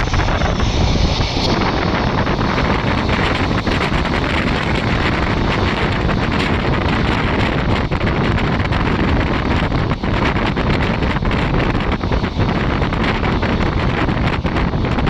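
Passenger train in motion: a steady running rumble of the coach on the track, with heavy wind buffeting the microphone.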